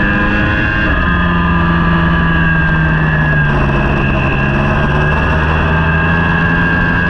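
Racing superbike engine running hard at high revs, its pitch fairly steady with a step down about a second in.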